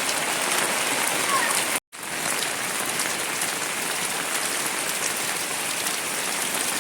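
Heavy rain falling, a steady hiss. It cuts off sharply for a moment about two seconds in, then carries on.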